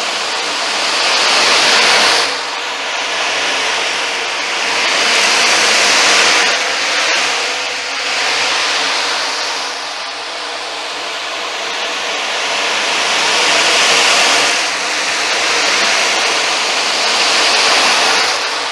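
Ocean drum: beads rolling across the drumhead to imitate surf, in repeated wave-like swells that build over a few seconds and drop off sharply, about five in all.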